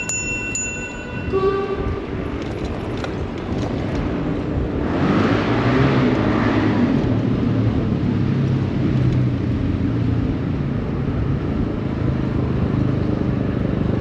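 City street traffic heard from a bicycle. A brief pitched tone fades out in the first second or so, a passing vehicle's rushing hiss swells and fades about five to seven seconds in, and a steady low engine hum follows.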